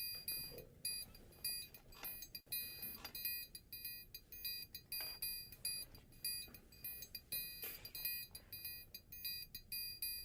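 Faint, repeating high electronic beeps, about two or three a second, in a synthetic background track.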